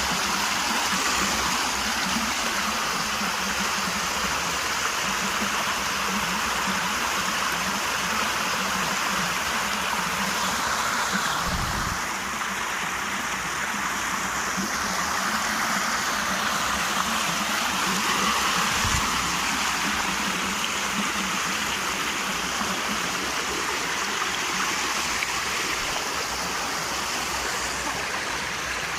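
Steady running and splashing water, as when a chicken is being washed down.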